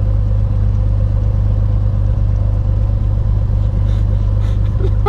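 Beechcraft Bonanza's piston engine running at low taxi power, heard inside the cabin as a steady, loud, low drone.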